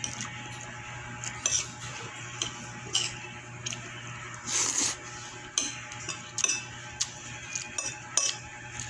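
Spoon and fork clinking and scraping on a plate while eating, in scattered irregular clicks, with one louder, longer scrape about halfway through.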